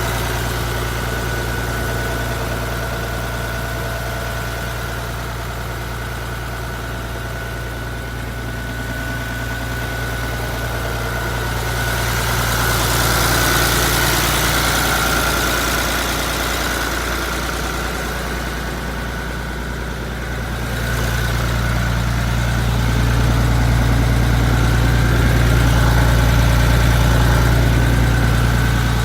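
Hino Ranger truck's diesel engine running at idle, a steady low drone that swells louder about twelve seconds in and again from about twenty-one seconds on.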